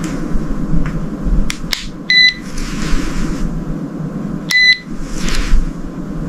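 Two short electronic beeps, each lasting about a quarter of a second and about two and a half seconds apart, over a steady low rumble. A couple of light clicks come shortly before the first beep.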